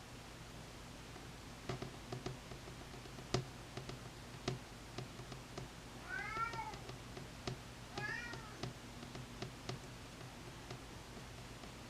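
A cat meowing twice, two short calls that rise and fall in pitch about two seconds apart, among a scattering of light clicks and taps.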